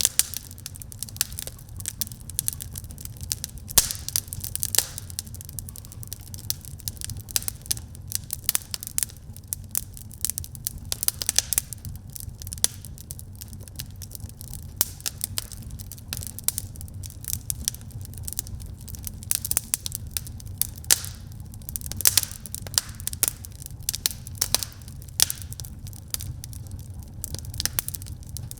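Wood fire burning in a fireplace, crackling with a steady stream of irregular sharp pops and snaps over a low steady rumble of the flames.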